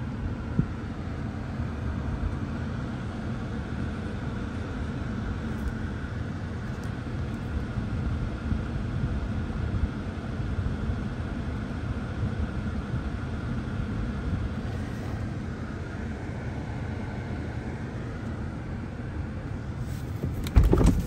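2019 Infiniti Q60's 3.0-litre twin-turbo V6 idling steadily in Park, heard from inside the cabin. About a second before the end come a couple of loud knocks.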